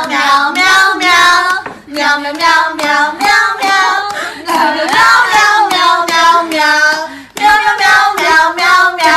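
A high voice singing a birthday song in four phrases with short breaths between them, breaking off suddenly at the end.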